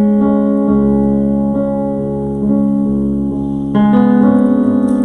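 Background music of sustained keyboard chords, the chord changing about a second in and again near the end.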